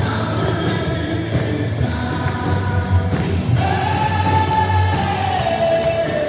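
Gospel choir singing with a band, a worship song; about halfway through the voices hold one long note that slowly falls in pitch.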